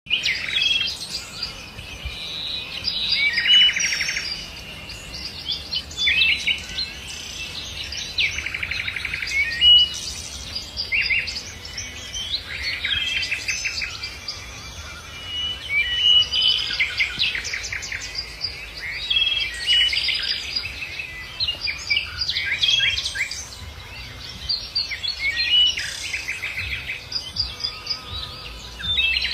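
Songbirds singing, with short trilling and chirping phrases repeating every second or two.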